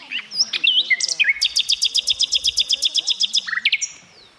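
A bird singing: a few quick whistled notes sliding up and down, then a fast, even series of sharp repeated notes, about ten a second, lasting a couple of seconds before it trails off.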